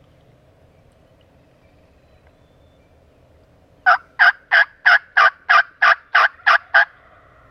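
A series of ten loud turkey yelps, evenly spaced at about three a second, starting about halfway through and stopping abruptly.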